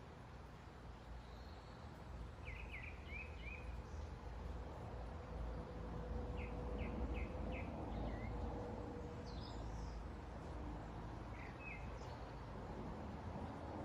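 Small songbirds chirping in short bursts of quick notes, several times, over a steady low rumble of road traffic that grows louder midway and then eases.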